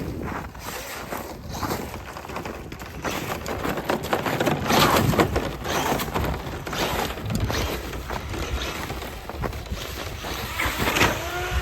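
Large electric Traxxas Maxx Slash RC truck running and jumping: tyre and motor noise with repeated knocks and clattering of the chassis, loudest about five seconds in.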